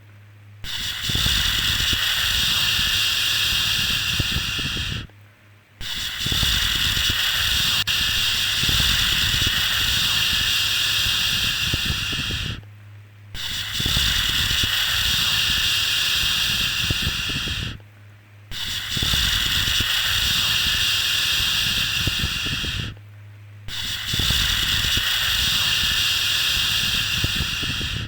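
A drawn-out 'shhh' shushing sound for soothing a baby, repeated over and over: each shush lasts about five to seven seconds, with a brief pause of under a second between them.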